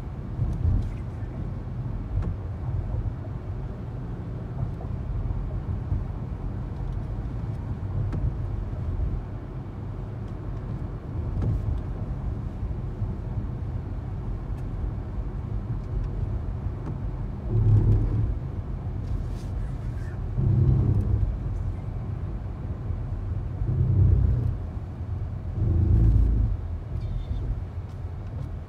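Steady low rumble of motor vehicles, with four louder low swells in the last third, like vehicles passing close by.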